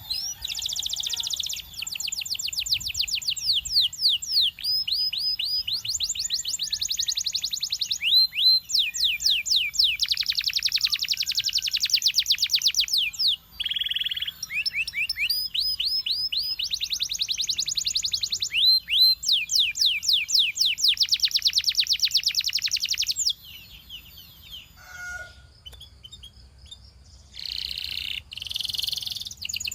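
Belgian singing canary in full song: long runs of rapid trills and repeated sweeping notes, with short breaks between phrases. The song stops about 23 seconds in and a few softer chirps follow before it starts again near the end.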